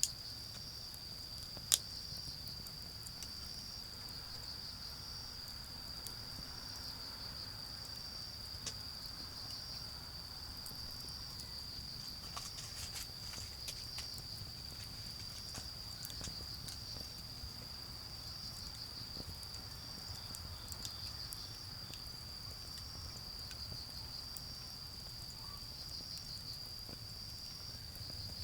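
Autumn insects calling: one shrill, continuous trill with another insect chirping in short repeated phrases above it. Sharp pops and crackles from a charcoal fire, the loudest about two seconds in, over a low rumble of distant car traffic.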